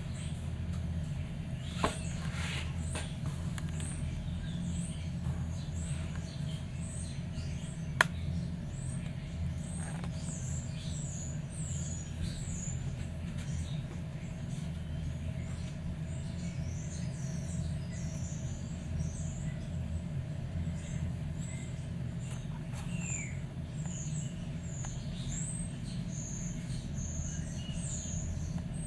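A bird making many short, high chirps and squeaks throughout, over a steady low hum, with two sharp clicks, one about two seconds in and a louder one about eight seconds in.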